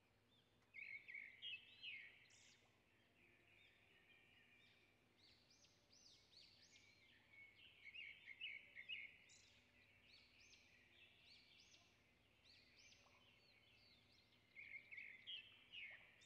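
Faint birds chirping and twittering: many short, high, quick calls overlapping, louder in clusters about a second in, around eight to nine seconds in, and near the end.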